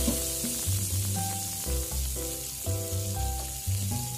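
Freshly added sliced onions sizzling steadily in hot oil in a kadai, with the cumin-seed, bay-leaf and dried-chilli tempering, at the start of frying to light brown. Background music with a steady low beat plays alongside.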